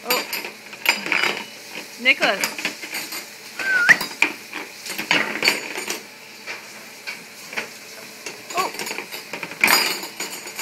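Metal spoons and cutlery clattering and clinking in a dishwasher's utensil basket as they are pulled about and dropped, in irregular rattling knocks.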